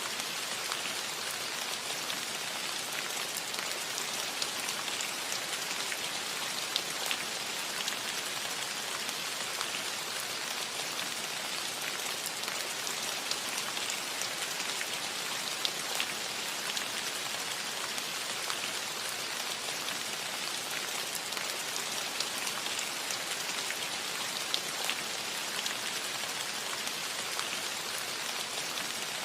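Steady rain falling on a cottage roof, an even hiss dotted with individual drop ticks.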